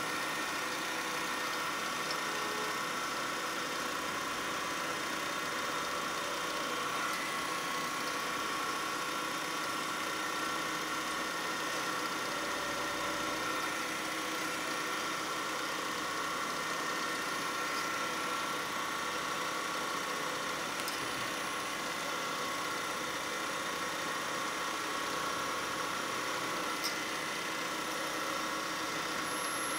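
Woodturning lathe running steadily, its motor giving a constant hum with a few faint clicks.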